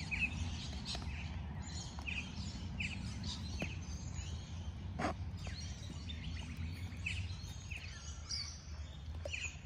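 Small birds chirping over and over in short calls, over a steady low rumble of outdoor background noise, with a few sharp clicks, the clearest about halfway through.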